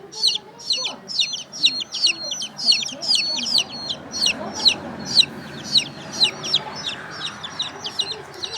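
A small bird, or several, chirping: a rapid, unbroken run of short, high, downward-sweeping chirps, several a second.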